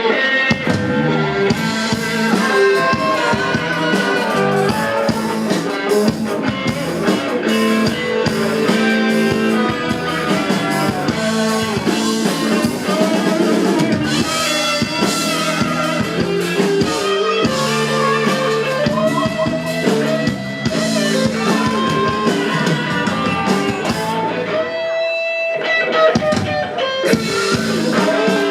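Band playing an instrumental passage: guitar over bass and drum kit. The low end and drums drop away for a moment near the end.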